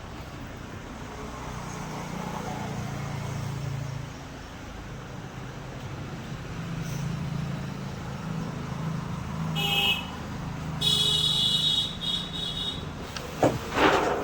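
Passing traffic rumbling, with a vehicle horn sounding briefly about ten seconds in and again for about two seconds just after.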